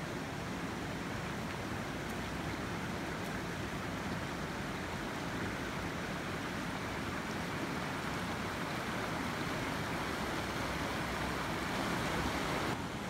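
Steady rushing of a creek, an even wash of water noise with no breaks.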